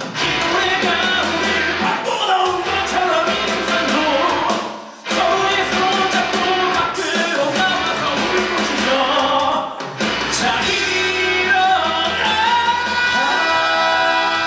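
Live rock musical number: singers with full band accompaniment, the music briefly dropping away about five seconds in before coming back in.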